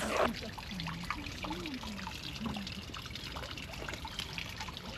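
Water trickling and dripping, many small splashes over a steady wash, with a brief louder bump just after the start.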